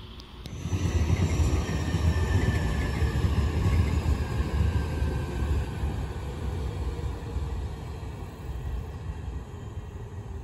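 JR 211-series electric train passing on the line: a heavy rumble of wheels on rail that swells about half a second in and slowly fades as the train moves away, with a faint high whine falling in pitch.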